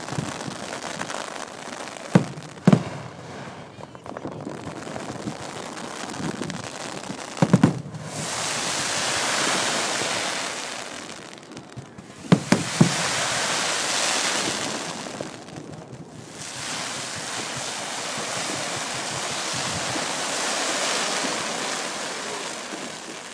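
Fireworks going off: a few sharp bangs, single and in quick clusters, and three long stretches of dense hissing crackle, each several seconds long.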